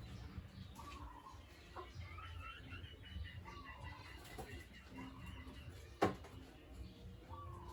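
Chickens clucking with short, bending calls, and higher chirps between them. A single sharp knock comes about six seconds in.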